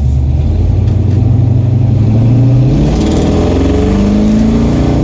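A 1978 truck's engine accelerating, its pitch climbing, easing briefly about halfway through as if shifting, then climbing again.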